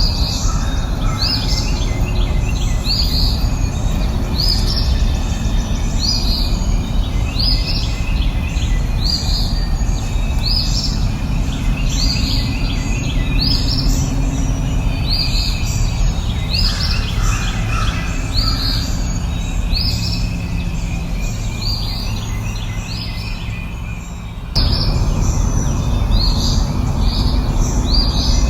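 Birds chirping, one short high call repeated about once a second, over a steady low background noise. The background steps up abruptly about 24 seconds in.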